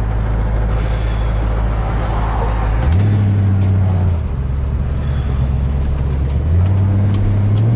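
1965 Ford Mustang's 289 V8 with dual exhausts running under way, with tyre and road noise. The engine note steps up about three seconds in, drops back a second later, and rises again twice near the end as the car is driven.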